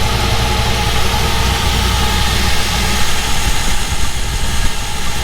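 Twin-turbo engine of a 1932 Ford coupe idling steadily, fed through a blow-through carburetor.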